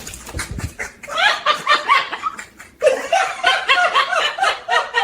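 High-pitched cackling laughter in two stretches with a short break between them.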